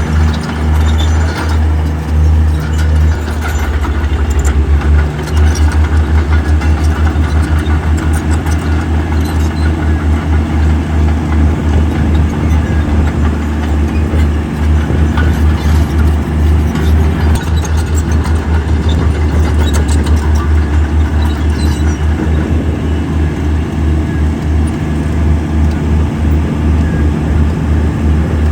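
Heavy diesel engine of construction machinery running loud and steady with a deep, rapid pulse, which quickens briefly about four seconds in. Scattered light clanks and rattles sound over it.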